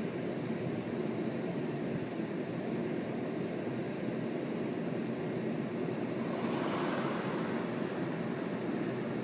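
Strong wind blowing in a steady rushing rumble, swelling in a gust about six and a half seconds in.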